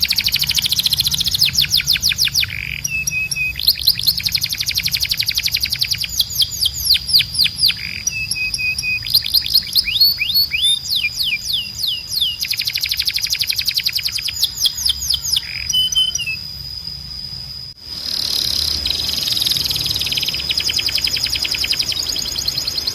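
Canary singing: fast trills of rapidly repeated downward-sweeping notes in phrases of about two seconds, broken by short held whistles, over a steady high-pitched tone. The song breaks off for a moment about three-quarters of the way in, then resumes.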